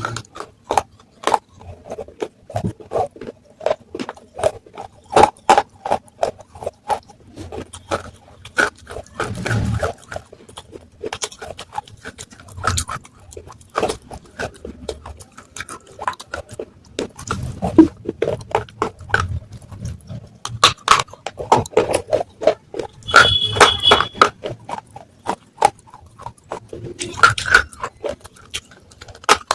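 Baked clay (matka) pieces being bitten and chewed up close: rapid, irregular sharp crunches and cracks, with softer mouth sounds between them.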